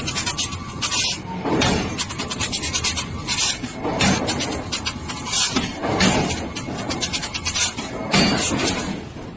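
Harsh scraping and rasping noise, coming in repeated uneven surges.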